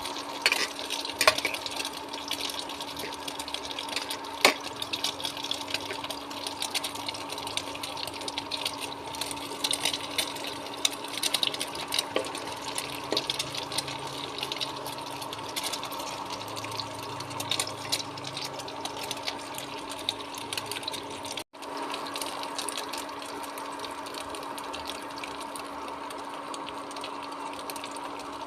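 Egg-battered vegetables frying in a pan of hot oil, sizzling with a steady crackle, over a steady low hum.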